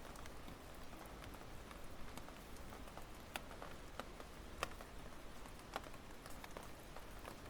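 Wood fire burning in a fire stand, crackling with scattered sharp pops, the loudest a little past halfway.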